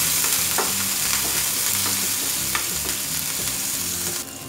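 Cumin seeds, chopped garlic and green chillies sizzling in hot oil in a frying pan while a wooden spatula stirs them, with a few light scrapes and taps of the spatula on the pan. The sizzle drops off sharply near the end.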